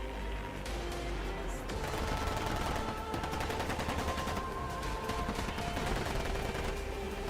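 Rapid automatic gunfire, a long run of fast shots, with music playing underneath.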